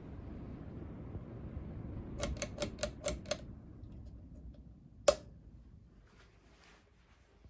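Emerson Northwind 29-inch ceiling fan running with a steady low whoosh. A quick run of six clicks comes just after two seconds in, then one loud switch-like click about five seconds in, after which the whoosh fades as the fan is switched off and starts spinning down.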